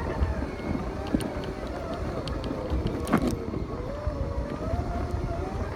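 Segway riding over rough, muddy ground: the electric drive motors whine, their pitch wavering up and down with speed, over a steady rumble of the wheels and jolts, with scattered sharp knocks from bumps, the loudest about three seconds in.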